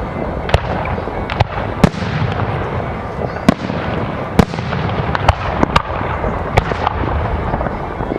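Fireworks display: aerial shells bursting in sharp, irregular bangs, about ten in eight seconds, over a steady noisy background.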